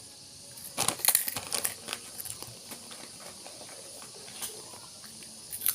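Short crackly bursts from a potato snack being eaten: a cluster about a second in and another near the end, over a steady faint hiss.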